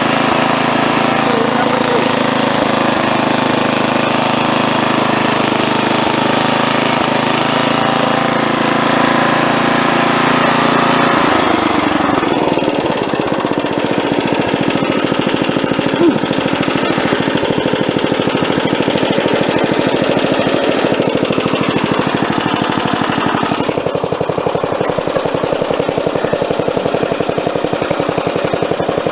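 Wheel Horse A-800 Ranger lawn tractor engine running steadily. About eleven seconds in, its sound changes abruptly from a steady hum to a rapid pulsing.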